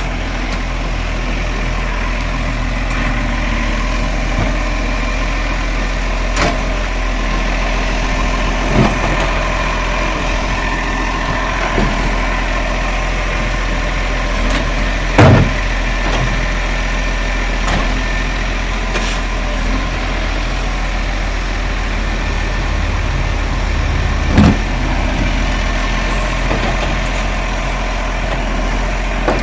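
Garbage truck engine running steadily, with about six sharp knocks scattered through it; the loudest comes about halfway through.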